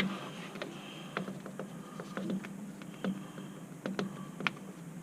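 Scattered light clicks and taps of hands and tools handling a tractor's hydraulic filter, over a faint steady low hum.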